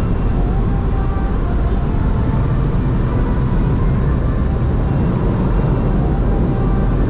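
Steady road and engine rumble of a car being driven, with a constant low roar that does not change over the few seconds.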